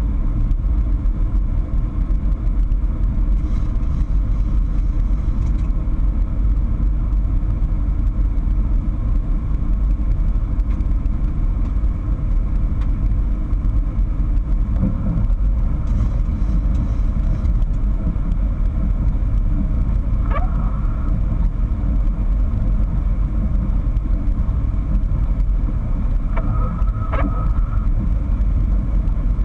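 Steady cockpit noise of a Boeing 737-800 in flight: a loud, even rumble of airflow and engines. A couple of short, faint tones sound about two-thirds of the way through and again near the end.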